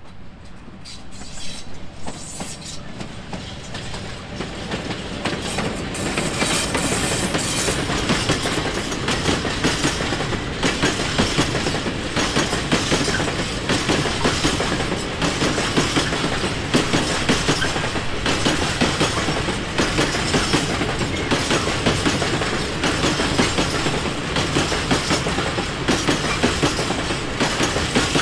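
Freight train of open coal wagons hauled by an EU07 electric locomotive coming near and passing, then a long string of wagons rolling by with a steady clatter of wheels over the rail joints. It grows louder over the first six seconds, then holds steady.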